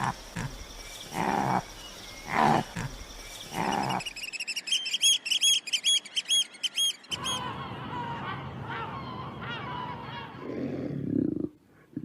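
A run of different animal calls: loud calls about once a second, then a bird's rapid series of high chirps for about three seconds, then low calls from a large animal near the end.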